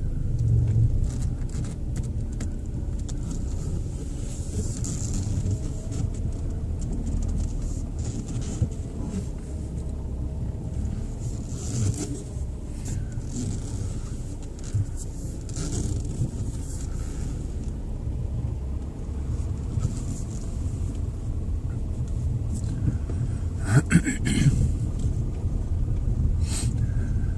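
Car being driven: a steady low rumble of engine and road noise, with scattered light clicks and a short louder clatter near the end.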